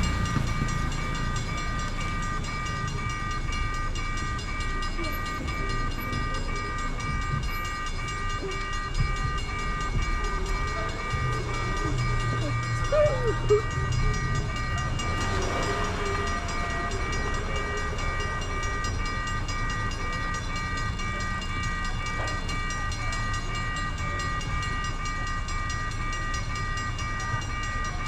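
Train at a railroad level crossing: a low rumble with a steady high-pitched tone and its overtones held unbroken throughout.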